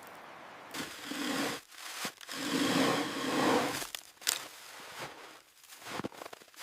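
Hand digging tool scraping and striking hard frozen ground: two longer scrapes, then several sharp knocks.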